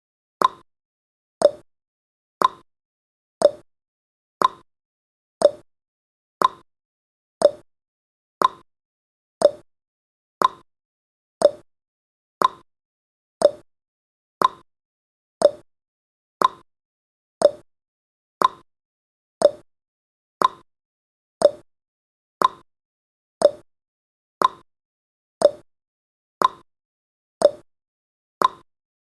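Countdown timer's clock-like ticking sound effect: one short click each second, alternating between a higher and a lower pitch like a tick-tock.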